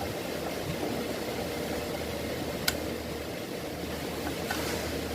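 Steady low mechanical hum of a running motor, with one sharp click a little past halfway and a couple of faint ticks near the end.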